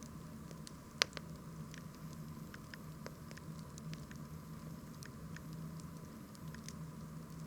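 Wood bonfire crackling, with scattered small pops and one sharp, louder pop about a second in.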